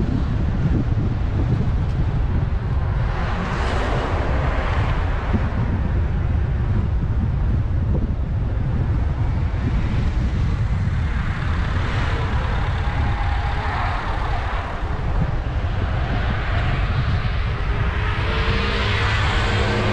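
A car driving on the road: a steady low rumble of road and wind noise, with a louder rushing noise swelling up and dying away three times.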